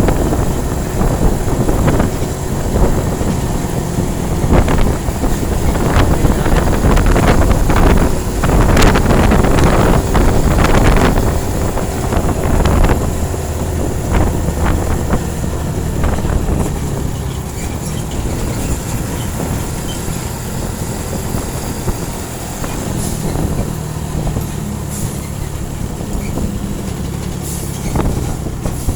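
Truck engine running steadily under way, with many knocks and rattles from the truck jolting over a rough road surface. The rattling is heaviest in the first half and eases off later.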